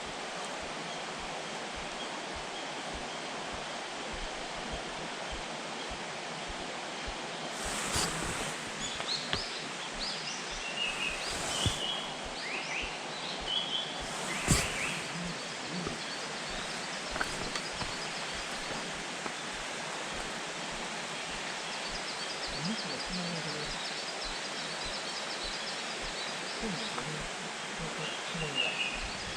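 Forest songbirds calling: a run of short high chirps and glides in the middle, then a faint repeated high twittering later on, over a steady background hiss. There are a few sharp clicks near the middle.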